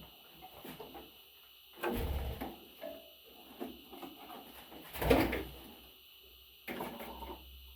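Several dull knocks and bumps, the loudest about five seconds in, with others about two seconds in and near the end, and light clicks between.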